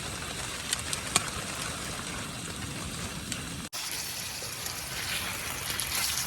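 Steady hiss of rain and strong wind, with a couple of light taps about a second in. After a cut partway through, the hiss turns brighter.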